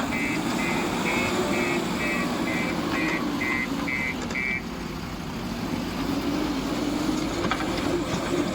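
A heavy vehicle's engine running steadily, with a reversing alarm beeping about twice a second that stops about four and a half seconds in.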